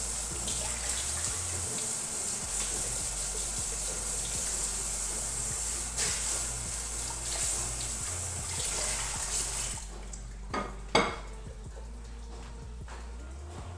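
Tap water running into a kitchen sink while dishes are handled. The water stops about ten seconds in, and two sharp clinks or knocks follow, the second louder.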